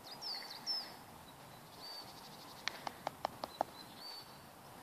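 Small birds chirping and whistling in the background, with a quick run of about six sharp clicks about two and a half seconds in.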